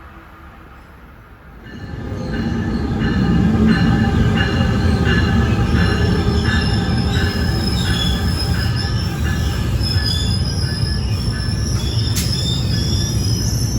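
A passenger train arriving and passing at speed on the Northeast Corridor: quiet at first, then about two seconds in a loud, steady rush of wheels on rail with a regular clicking of wheels over the rail, roughly once or twice a second. High thin whining or squealing tones from the wheels and running gear rise in the second half.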